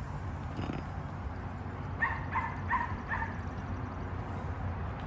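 A small dog yapping four times in quick succession about two seconds in, over a steady low hum.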